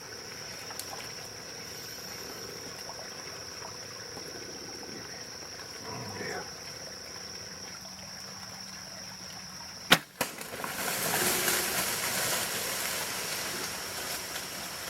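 A steady high drone of insects. About ten seconds in, a single sharp snap of a bow shot, then several seconds of rushing, rustling noise as the deer bolt off through the brush.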